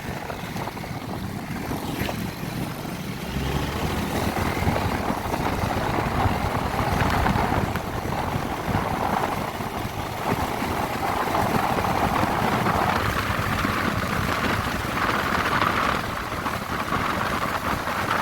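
Honda CB150R single-cylinder motorcycle riding at speed, its engine running under heavy wind noise on the microphone. The engine's pitch shifts up and down as the speed changes.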